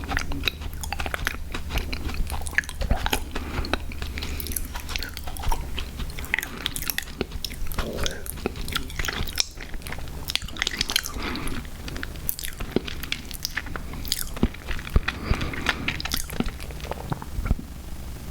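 Close-miked chewing and biting of sour gummy worms cereal: irregular wet smacks and small crunches, over a steady low hum.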